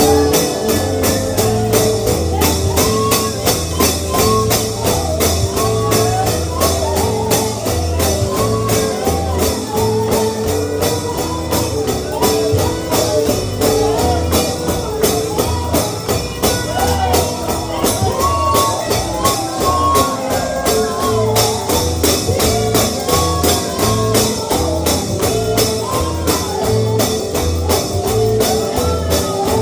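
Bluegrass gospel music with no words heard: the band plays on, with a stepping bass line, melodic lines that slide up and down, and a steady, even high percussive beat like a tambourine.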